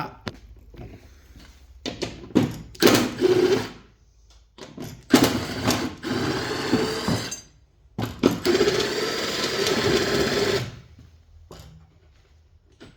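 Cordless power driver running in three bursts, about one and a half, two and two and a half seconds long, backing screws out of a lawn tractor's mower deck.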